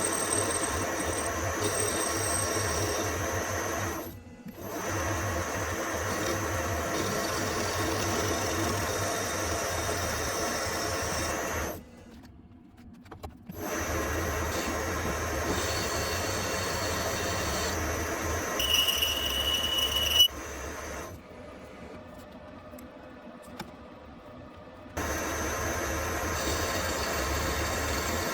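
Workshop machine tool running steadily in spells. It stops briefly about four seconds in, again around twelve seconds, and for several seconds after about twenty-one seconds, with a short high squeal just before the last stop.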